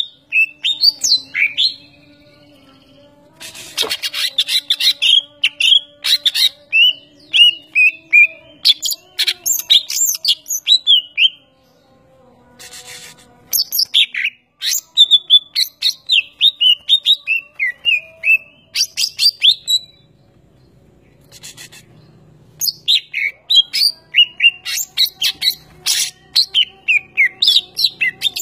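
A bird chirping in quick runs of short calls, the runs broken by pauses of a couple of seconds.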